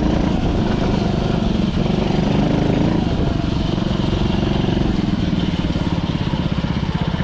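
Dirt bike engine running steadily, then dropping to a lower, pulsing run about five seconds in as the revs come down.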